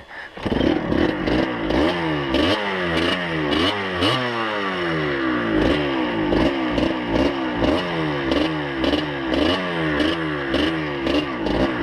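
Dirt bike engine ridden on a rough trail, its pitch dropping and picking up again about twice a second as the throttle works, with rattling and clattering over the bumps.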